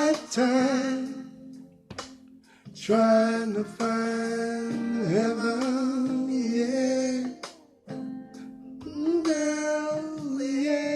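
Music: a voice singing long held notes with vibrato over guitar.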